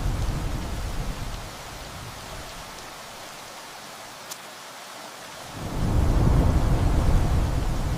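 Steady rain with rolling thunder. A low rumble dies away in the first second or two, leaving rain alone, then a new roll of thunder swells up about halfway through and carries on to the end.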